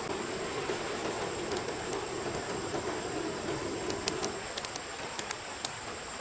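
Steady rush of a forest stream's flowing water under a thin, high steady tone, with a scatter of sharp light clicks in the second half.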